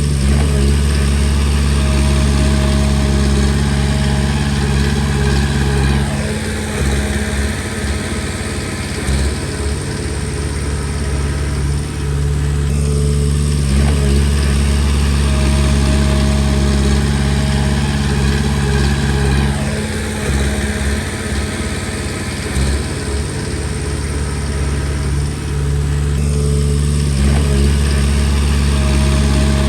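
Komatsu D20P bulldozer's diesel engine running steadily under load, its note shifting every six or seven seconds as the machine works.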